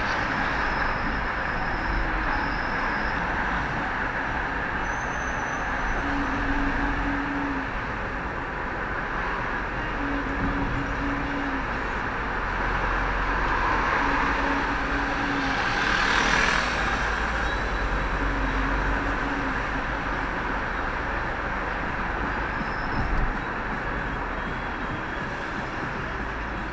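Steady running noise of a vehicle in motion, heard from inside: a low rumble under an even hiss, swelling briefly about two-thirds of the way through. A low hum comes and goes about every four seconds.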